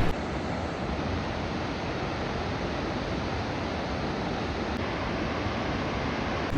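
A steady, even rushing noise with no distinct events, starting and stopping abruptly.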